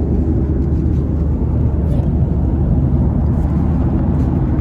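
Airliner cabin noise in flight: a steady, loud, low roar of engines and rushing air heard from inside the cabin.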